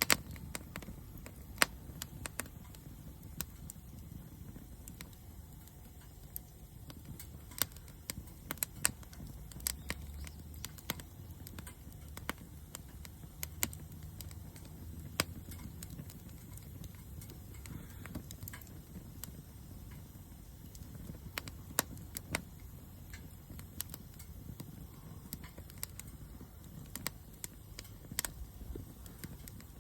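Small wood fire burning in a compact fire pit: the wood crackles with irregular sharp pops over a low, steady rumble of flame.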